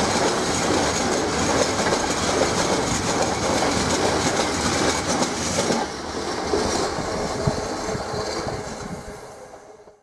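Container freight train's flat wagons, loaded with shipping containers, rolling past at speed. The tail of the train passes about six seconds in, and the sound then fades as it moves away, cutting off abruptly at the end.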